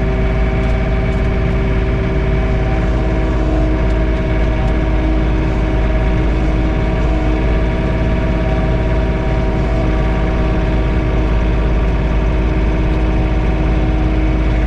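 John Deere 3046R compact tractor's three-cylinder diesel engine running steadily, heard from inside the closed cab while the PTO-driven snowblower clears snow. A constant drone with no change in speed.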